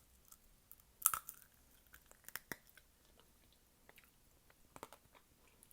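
Close-miked chewing of sugar-candied fruit, with a sharp crunch about a second in, then scattered smaller crunches and wet mouth clicks.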